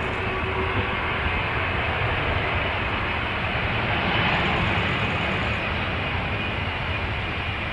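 Airliner's engines heard as a steady rushing noise that swells slightly about halfway through.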